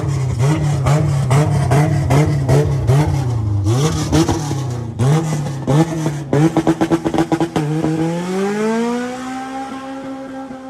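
A race car's engine revving in quick repeated blips, about two a second, then a burst of rapid crackling pops. A bit more than halfway through it pulls away: the engine note climbs, levels off and fades with distance.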